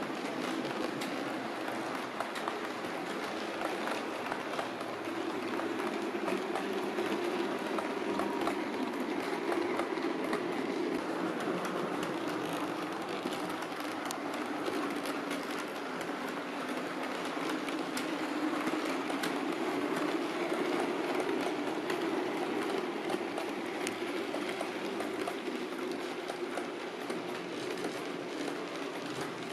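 Model train running on the track: a steady motor whirr with frequent small clicks of the wheels over the rail joints, growing a little louder in the middle.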